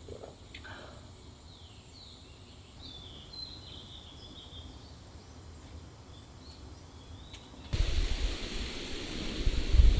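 Birds chirping faintly over quiet outdoor ambience. Near the end a loud, steady rushing noise that is heaviest in the low end cuts in suddenly.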